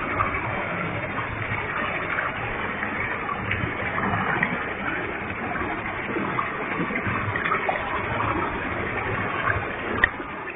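Waterfall with a heavy flow, a steady rushing of falling water. One sharp click near the end.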